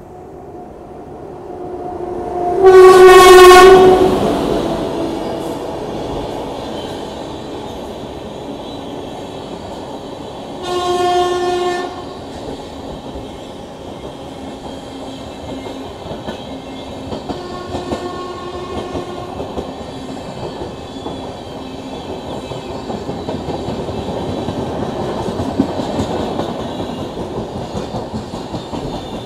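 Train horn sounding three times: a long, loud blast, a shorter one about eight seconds later, and a fainter third. Then the rising rumble and clickety-clack of an express train passing close on the adjacent track.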